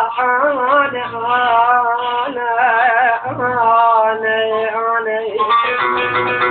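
A man singing a long, drawn-out melismatic line with wavering, ornamented held notes in Arabic vocal style. About five and a half seconds in, an electronic keyboard (oriental org) accompaniment comes in.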